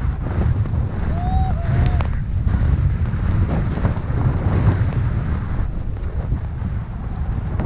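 Wind buffeting the camera microphone in a snowstorm: a loud, steady, low rumble.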